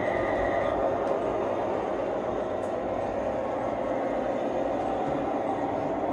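LGB large-scale model train running along the track, a steady rolling rumble of motor and wheels on the rails, with a brief high tone in the first second.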